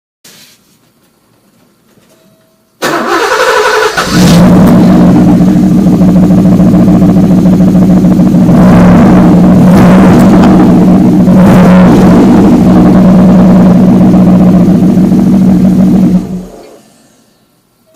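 Porsche 928's V8 cranking and catching about three seconds in, then running steadily through its exhaust with the rear muffler bypassed, with two short swells in the sound midway. It shuts off near the end and dies away.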